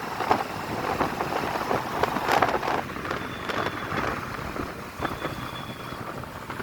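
Wind buffeting the microphone in uneven gusts over the running noise of a motorbike on the move.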